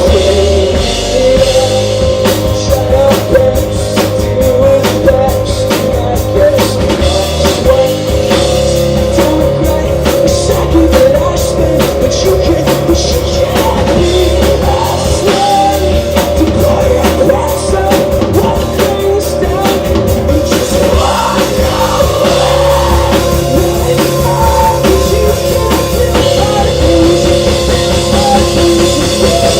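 Rock band playing live: a drum kit hit several times a second under sustained guitar chords.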